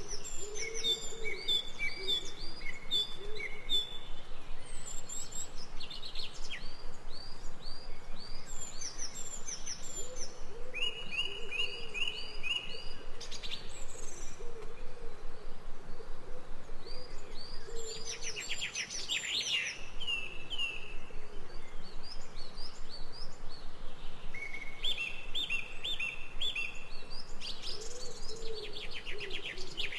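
Forest birdsong: several birds singing phrases of quick, repeated high chirps, with a lower wavering call repeating underneath at times.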